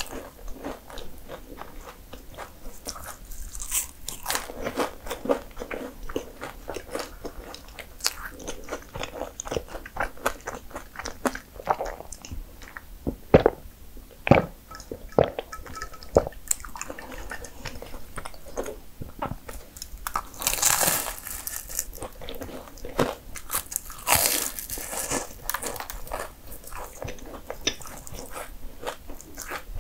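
Biting into and chewing flaky mini puff pastries: repeated crisp crunches and crackles of the layered crust between chewing. Two longer, louder crunches come about two-thirds of the way through.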